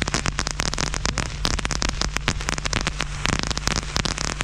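Fireworks crackling: a dense, irregular run of sharp pops and crackles over a steady low rumble.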